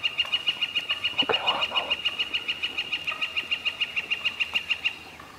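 A bird calling a long, fast, evenly spaced series of high notes, about eight a second, which stops about five seconds in.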